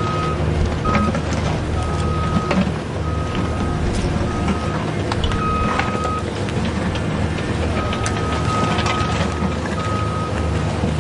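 Remote-control toy construction vehicle running: a steady electric-motor hum with a high beeping tone that sounds on and off in dashes of uneven length, and scattered clicks.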